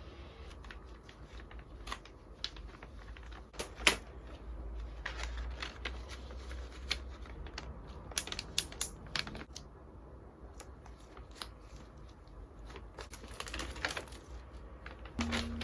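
Scattered small clicks, taps and rustles of objects being handled on a table, the sharpest about four seconds in, over a low steady hum.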